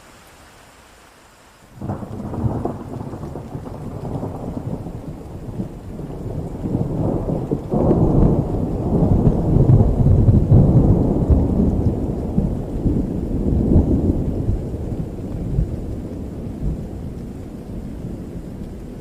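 Rain falling steadily, then a peal of thunder breaking suddenly about two seconds in. It rolls on as a long low rumble that swells to its loudest around the middle and slowly dies away.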